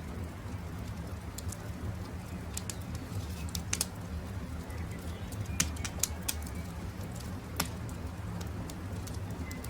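Campfire crackling: a steady low rumble of burning wood with scattered sharp pops, the loudest a little past the middle and about three quarters in. Faint short bird chirps sound now and then.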